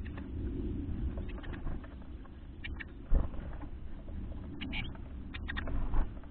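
A few short, high chirps of small birds over a steady low rumble, with a dull thump about three seconds in.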